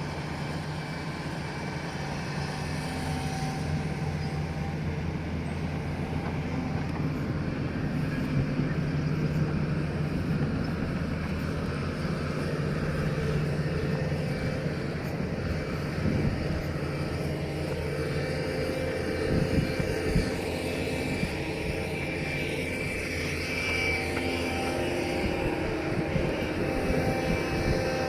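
Diesel engine of a heavy earthmoving machine running steadily under work, with a few short knocks about two-thirds of the way through.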